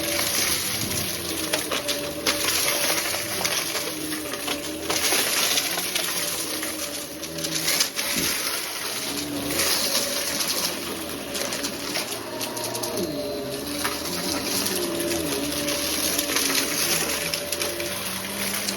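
Hoover vacuum cleaner running, with a rushing airflow and a motor whose pitch wavers up and down as it is worked over the floor. There are occasional sharp clicks, the loudest about 8 seconds in.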